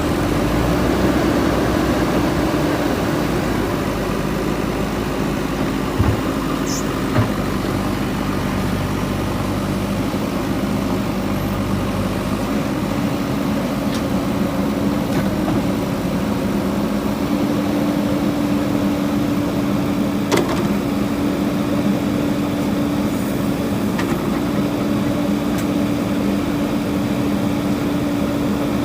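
JCB 3DX backhoe loader's diesel engine running steadily with a slight change in engine note partway through, and a few sharp knocks.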